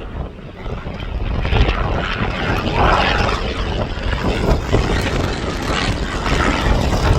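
Aircraft engine noise, growing louder over the first couple of seconds and then holding, with gusts of wind rumbling on the microphone.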